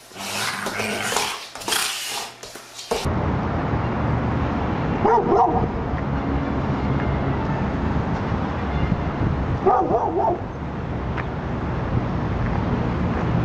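A dog barks twice, about four and a half seconds apart, over a steady rushing background noise. This follows a different, busier stretch of dog sounds that cuts off about three seconds in.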